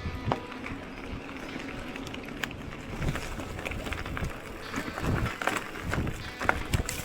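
Mountain bike moving over a rough forest track: tyres crunching on the ground, with irregular knocks and rattles.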